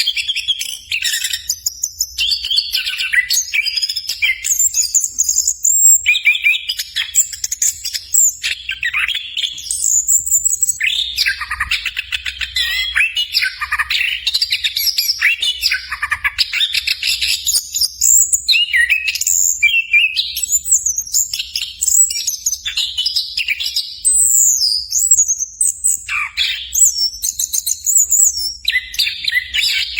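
Orange-headed thrush (anis kembang) singing a fast, continuous, rambling song of quick trills and rapid sweeping notes, with hardly a pause.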